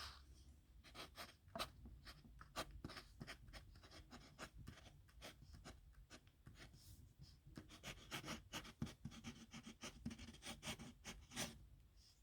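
Pen tip scratching across paper in quick, uneven strokes and flicks as a signature is written, the strokes coming thicker in the second half.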